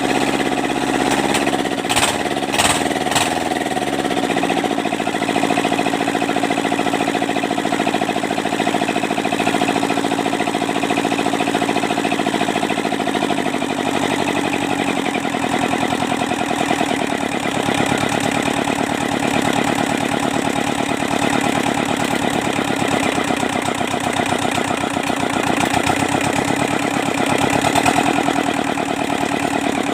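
Kubota Z751 two-cylinder diesel engine running. Its speed wavers about two seconds in, with a few sharp knocks, then settles to a steady run, and its note shifts again about halfway through.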